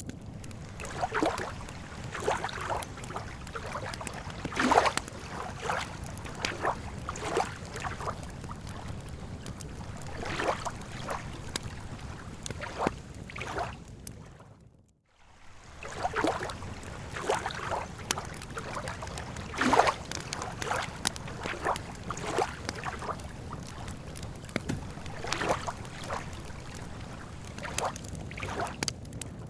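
Campfire crackling with irregular sharp pops, over a steady low wash of lake water lapping. The whole sound briefly fades out and back in about halfway through.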